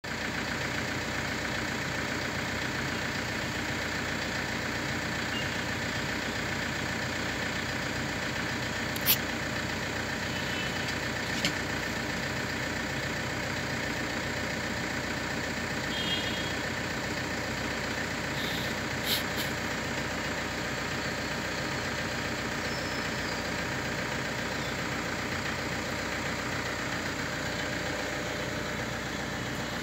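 Steady hum of an idling car engine, with a few short sharp clicks, the loudest about nine seconds in.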